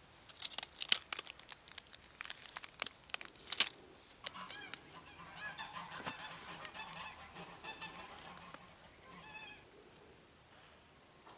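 A run of sharp clicks and crackles, then domestic geese honking in a drawn-out, wavering series of calls.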